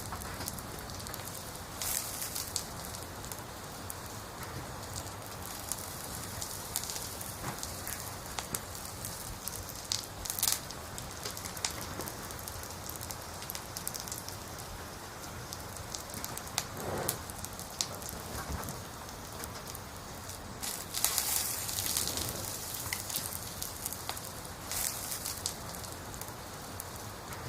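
Wood logs burning in a campfire, crackling and popping irregularly over a steady hiss, with a few louder pops scattered through.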